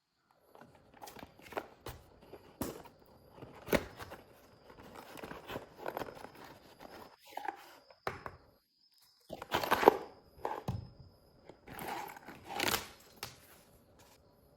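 Handling noises from unboxing a mini fan: irregular clicks, taps and rustling of packaging, with a louder rustling burst about ten seconds in.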